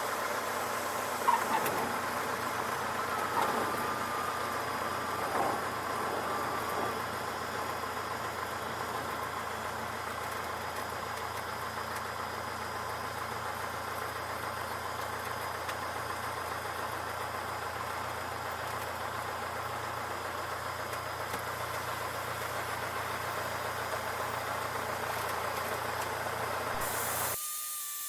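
Cessna 152 cabin noise: the four-cylinder Lycoming engine and propeller running steadily, with a few short sharp sounds in the first six seconds. The sound cuts off abruptly near the end.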